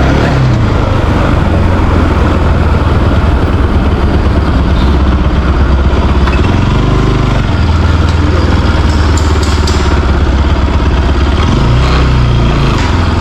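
Motorcycle running while being ridden, under a heavy steady low rumble. The engine note swells and falls back twice, about seven and twelve seconds in.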